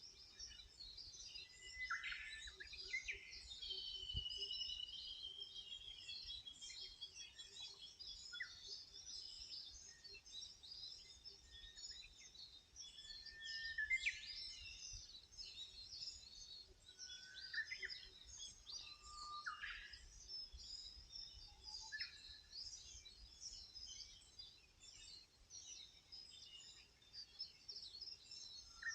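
Several wild birds singing at once: a dense chorus of short high chirps, with a long trill about four seconds in and scattered lower whistled notes.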